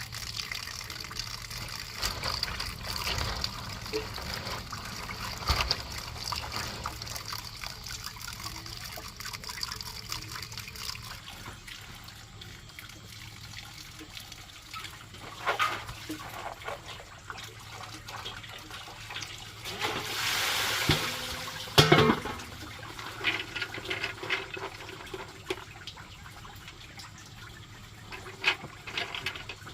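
Water splashing and trickling, with scattered knocks. About twenty seconds in, a louder rush of water lasts about a second, followed by a sharp knock.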